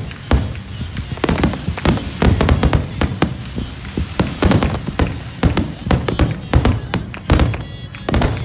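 Fireworks going off in a dense, rapid barrage: many overlapping bangs and cracks, several a second, with no let-up.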